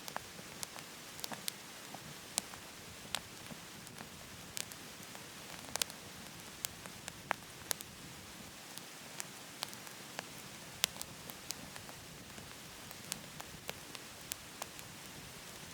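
Firewood burning in a wood stove, crackling with irregular sharp pops, a few a second, over a steady rushing hiss of a waterfall.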